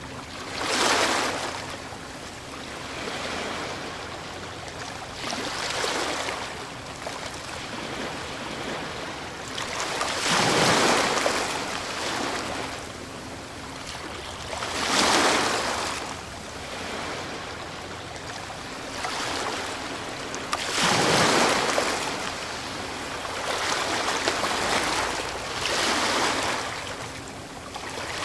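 Ocean waves breaking on the shore, one surge of rushing surf every few seconds, the biggest crashes about ten, fifteen and twenty-one seconds in.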